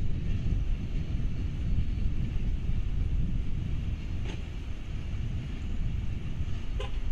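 CSX freight train rumbling past in the distance, heard through a trackside webcam's microphone with wind noise on it. Two brief clicks about four seconds in and near the end.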